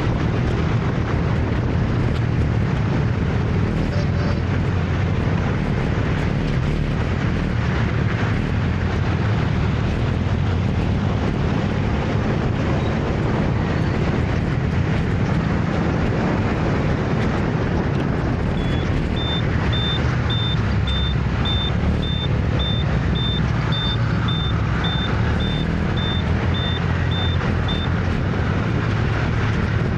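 Steady city traffic noise heard from a moving motor scooter, with a low rumble throughout. About two-thirds of the way in, a high electronic beep starts repeating about twice a second and runs for around nine seconds.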